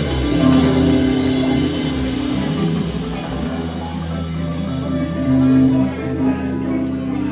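Live band playing an instrumental passage: guitar over bass and drums, with held notes and no singing.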